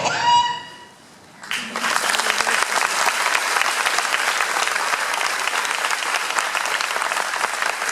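The last note of the dance music fades out, then an audience breaks into steady applause about a second and a half in.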